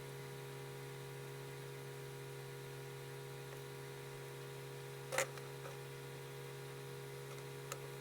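Steady electrical mains hum made of several fixed tones, with one sharp tap about five seconds in and a lighter click near the end.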